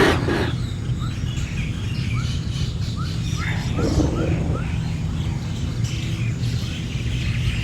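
A bird chirping: a run of about a dozen short rising chirps in quick succession, over a steady low rumble, with brief louder noisy swells at the start and about four seconds in.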